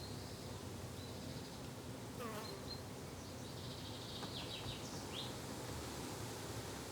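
Garden insects buzzing with a steady low drone, while a bird gives a few short high chirps, most of them in the second half, and one quick falling call about two seconds in.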